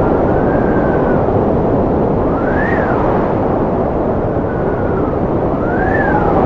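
Strong wind blowing steadily, with a whistling howl that rises and falls in pitch several times.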